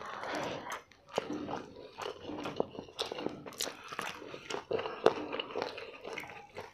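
Close-miked chewing and mouth sounds of people eating chicken biryani with their hands: soft, many small irregular clicks.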